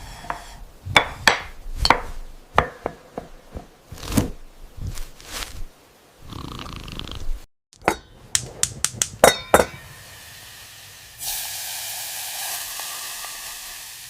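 Kitchen cooking sounds: a run of sharp knocks and clinks of utensils and dishes, then, about three-quarters of the way through, a steady sizzle of food frying in a pan.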